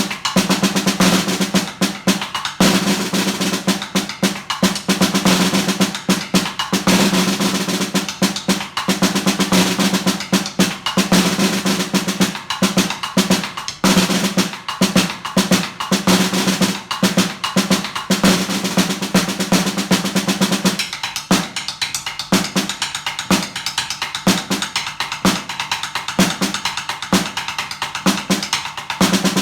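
Snare drum played solo in fast, dense rolls, the drumhead ringing steadily underneath. About two-thirds of the way through, the continuous roll breaks into short rhythmic bursts separated by brief gaps.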